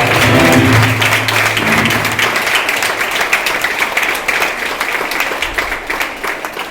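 Audience applauding as the band's last held note dies away in the first two seconds; the clapping then gradually fades.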